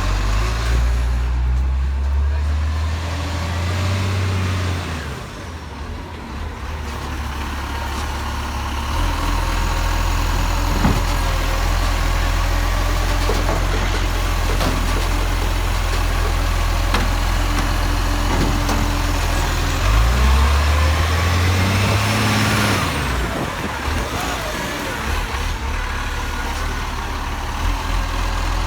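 A motor vehicle's engine running steadily, its low hum shifting in pitch near the start and again about twenty seconds in as the vehicle changes speed. A brief rising whine comes just after the second change.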